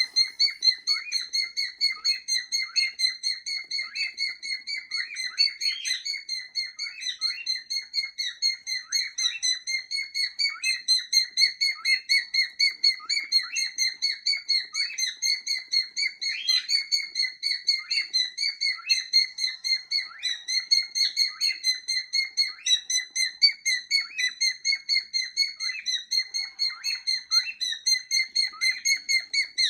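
Pet cockatiels giving a long run of short repeated chirping calls, about two to three a second, in an even rhythm. This is the vocal pattern of the 'cockatiel march' display.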